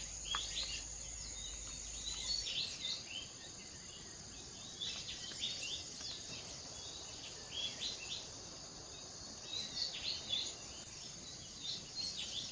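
Birds chirping in short, repeated calls over a steady high-pitched drone of insects.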